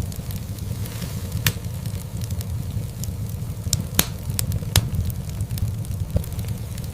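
Wood fire crackling in a fireplace: a steady low rumble of burning logs with sharp pops and snaps scattered through it, the loudest about four seconds in.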